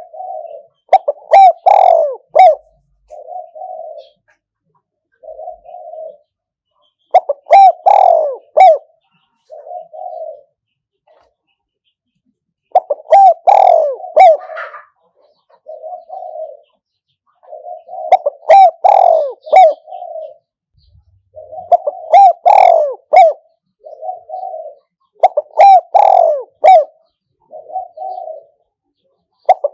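Spotted dove cooing as a decoy bird, calling to lure wild spotted doves. It sings a phrase of several deep coos about every five to six seconds, with single softer coos in between.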